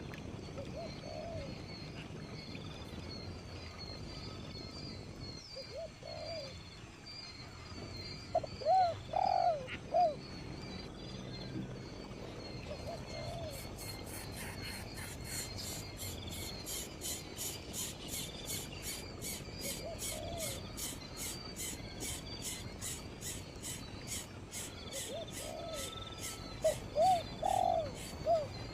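Bird cooing in short groups of two to four soft notes, repeated several times, over steady high chirping. From about halfway there is a fast, even ticking of about three pulses a second.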